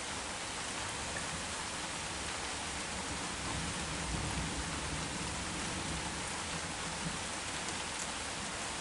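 Heavy rain falling steadily, an even hiss of downpour, swelling slightly in the low end about four seconds in.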